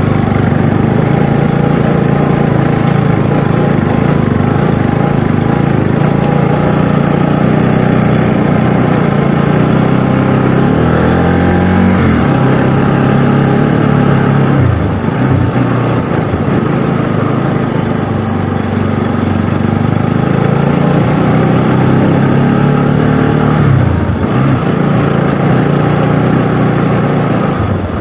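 Motorcycle engine running while riding, its note stepping up and down in pitch several times as the speed changes, over steady road and wind noise.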